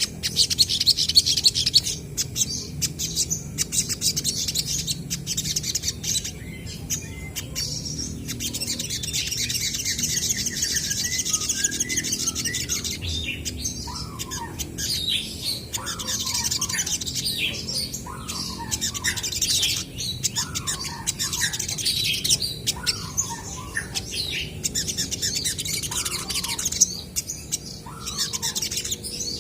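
Olive-backed sunbirds calling back and forth with rapid high chirps and trills. From about a third of the way in, short falling notes repeat every second or so.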